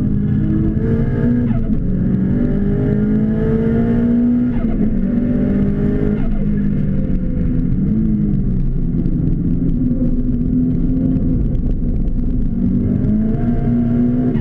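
Car engine heard from inside the cabin on a track lap, running hard: its pitch climbs for the first four seconds, drops away between about six and eight seconds in, then climbs again near the end.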